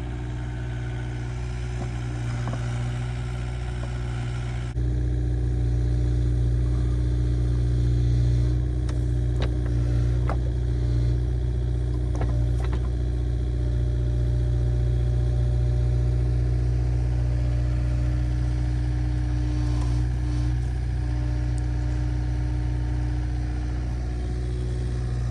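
Diesel engine of the grave-digging machinery running steadily, getting suddenly louder about five seconds in, with a few sharp knocks a few seconds later.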